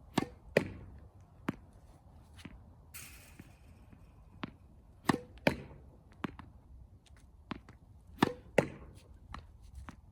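Tennis ball bouncing on the court and struck with a racket, three times over: each a pair of sharp hits about half a second apart. Fainter hits sound in between.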